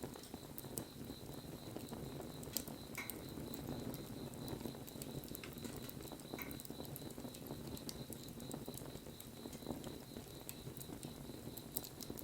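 Wood bonfire burning: a steady low rush of flame with scattered sharp crackles and pops from the burning wood.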